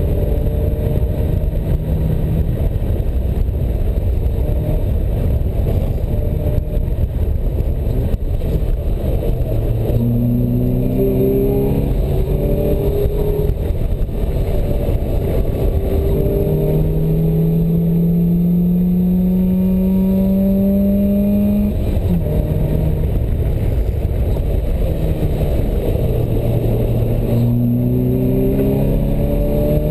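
Open-top sports car's engine heard from the cockpit while lapping a race track, pulling hard in long rising sweeps of revs that break off sharply and start lower again, over constant low wind and road rumble.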